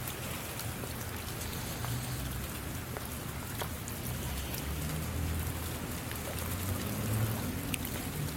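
Steady rain falling, an even hiss with scattered sharp drop taps and a low rumble underneath.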